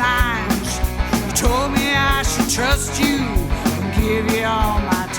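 Rock band playing, with a steady drum beat under a melodic line that bends up and down in pitch.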